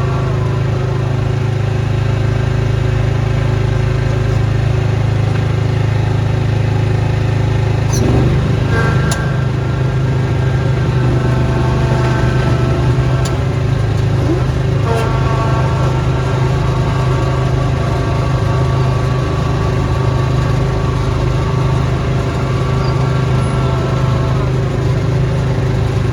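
Small gasoline engine of a snowblower running steadily under load. Its whine shifts and a couple of brief knocks sound about eight and fifteen seconds in.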